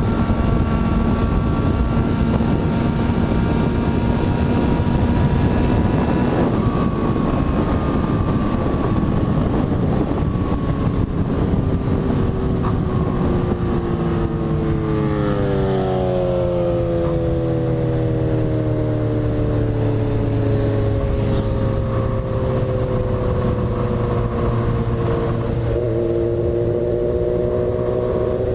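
Motorcycle engine running under heavy wind noise on the microphone. Partway through, its pitch slowly falls as the bike slows, then levels off and rises slightly near the end.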